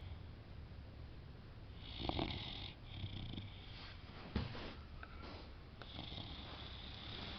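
Boxer dog snoring in its sleep: a steady low snore with breathy hissing at intervals, and a single sharp click a little past the middle.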